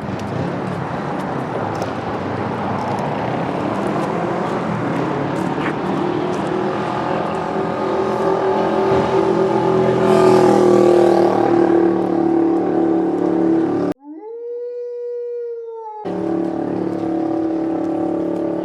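Street traffic: motor vehicles running and passing, with one engine's pitch rising as it pulls away; near the end a clean held tone briefly replaces the traffic noise.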